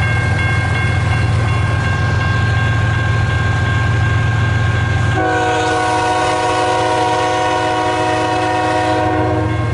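Freight train diesel locomotive rumbling steadily past a grade crossing. About five seconds in, its horn sounds one long multi-note chord lasting about four seconds.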